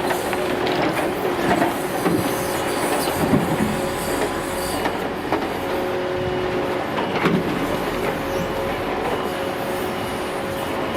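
Hydraulic crane of a timber truck working at a railway wagon: a steady whine with irregular metallic clanks and knocks as logs are handled, and a few short squeals.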